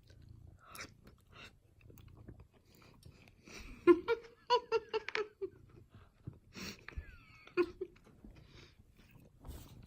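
A person chewing food, with a quick run of short pitched vocal sounds about four to five seconds in.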